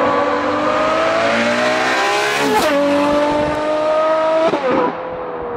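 Ferrari 812 GTS's naturally aspirated 6.5-litre V12, through a Novitec exhaust, accelerating with a rising pitch. It upshifts twice, about two and a half seconds in and again near four and a half seconds, the pitch dropping at each shift. It is a little quieter toward the end.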